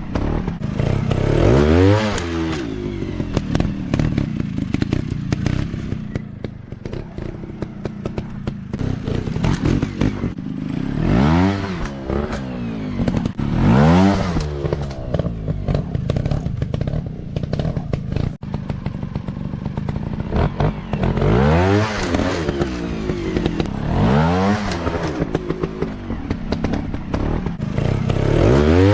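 Small-displacement dirt bike engines running, with the throttle opened repeatedly so the pitch rises and falls about six times, over a steady engine rumble with clattering and knocks.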